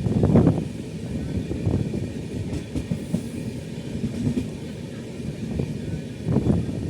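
Express passenger train running on the rails: a steady low rumble, with heavier knocks just after the start and again near the end.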